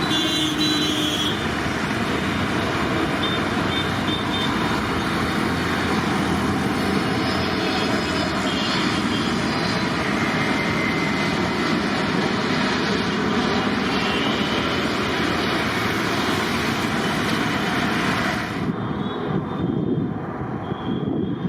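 Jet airliner taking off, its engines at take-off power giving a loud, steady roar. About three seconds before the end the hiss in the roar drops away suddenly, leaving a lower rumble.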